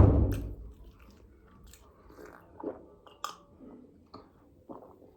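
Close-up eating sounds: chewing and biting with small wet clicks of the mouth, following a loud thump at the very start.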